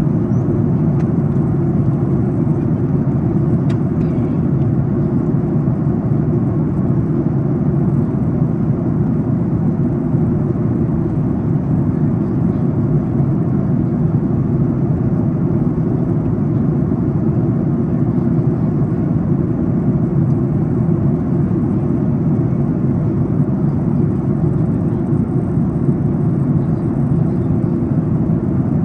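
Steady cabin noise inside a Boeing 737 MAX 8 airliner during descent: an even, low rush of airflow over the fuselage and its CFM LEAP-1B engines, unchanging throughout.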